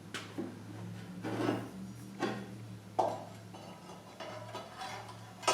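Metal hardware and tools clinking and knocking while a bandsaw table is bolted together: about five sharp clinks spread over the few seconds, with some scraping near the end, over a steady low hum.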